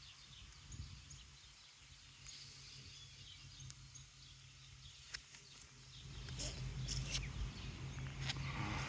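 Quiet outdoor ambience: a steady low hum with scattered faint bird chirps. About six seconds in, a louder low rumble sets in with a few sharp clicks and crackling rustles close to the microphone.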